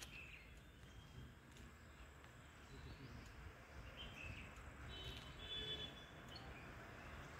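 Near-silent ambience with faint, scattered high bird chirps, a brief run of clearer calls about five seconds in, over a low rumble.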